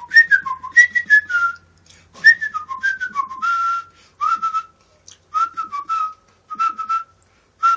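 A person whistling a tune by mouth: phrases of short notes with small glides between them, breath audible with each note, and brief pauses between phrases.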